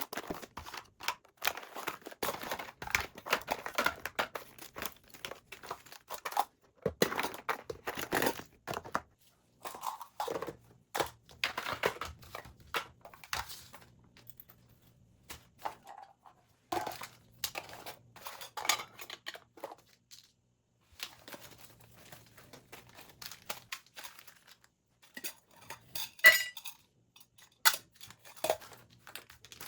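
Household items being handled: irregular rustling and crinkling, with light clicks and clinks and a few short pauses, and one sharp ringing clink near the end.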